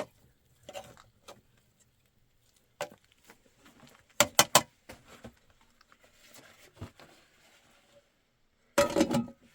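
Scattered short knocks and clicks, with a quick run of four sharp knocks about four seconds in and a louder clatter near the end.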